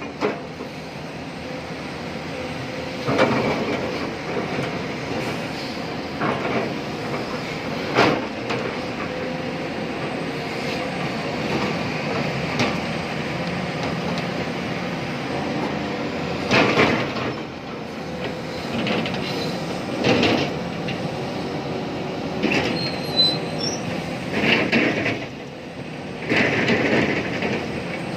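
Tata Hitachi Zaxis 870 LCH excavator working under load, heard from the operator's cab: a steady engine and hydraulic drone, broken several times by short, loud metallic clanks and bangs from the bucket and its load.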